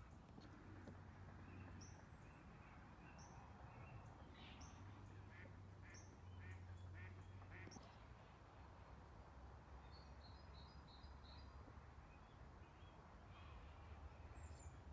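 Near silence with faint, distant waterfowl calls: scattered short quacks, plus a quick run of about six high bird notes about ten seconds in, over a faint low hum.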